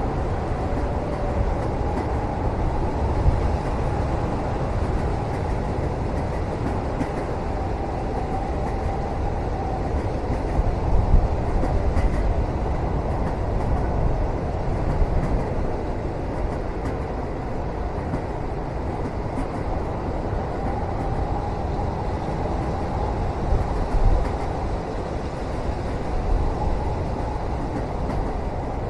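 Train running, heard from inside a sleeper cabin: a steady low rumble with a faint wavering hum above it and a few brief bumps.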